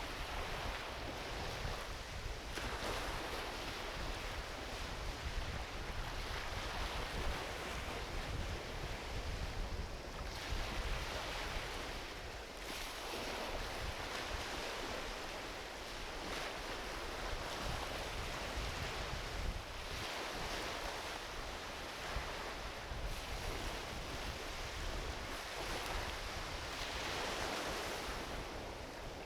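Small ocean waves washing onto a beach, a fresh surge every three to four seconds over a steady hiss of surf, with a low rumble of wind on the microphone.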